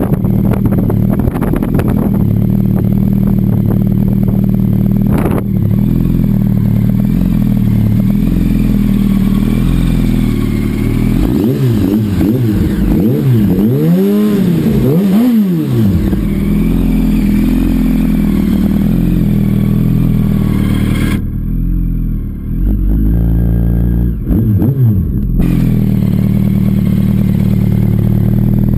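2007 Yamaha R1's inline-four engine idling steadily, with a few quick throttle blips rising and falling about halfway through and one more a few seconds before the end.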